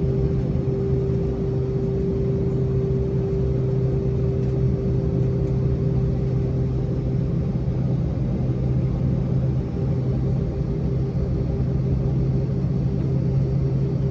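Airbus A320's IAE V2500 engines running at steady power, heard inside the cabin as a loud, even rumble with a steady low hum and a higher drone; the higher tone starts to pulse about halfway through.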